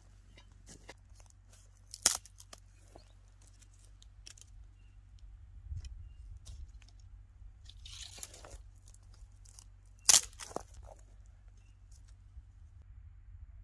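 Dry vegetation crunching and snapping: a sharp crack about two seconds in, a longer rustling crunch around eight seconds, and another sharp crack about ten seconds in, with small scattered clicks between.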